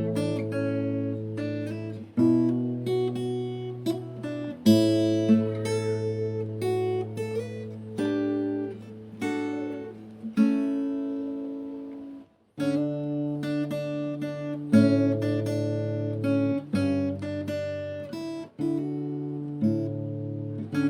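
Background music of acoustic guitar, plucked and strummed chords, breaking off briefly about twelve seconds in before going on.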